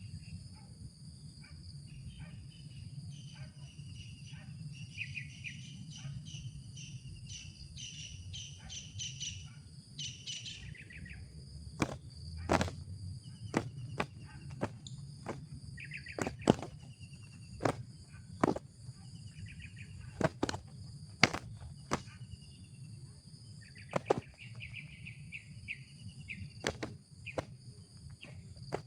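Small birds chirping in short, high-pitched phrases over a steady, high insect drone, with sharp snaps at irregular intervals in the second half.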